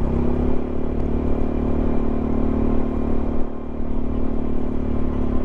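Yamaha XMAX 300 scooter's single-cylinder engine running at a steady speed while riding, one even engine note over wind and road rush.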